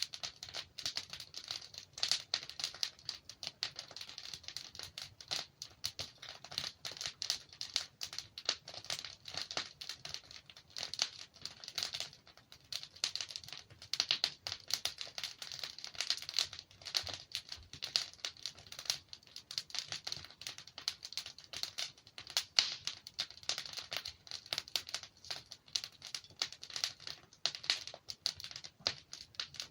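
Wood fire crackling and popping as logs burn in a fireplace: a dense, irregular run of small sharp snaps with the odd louder pop.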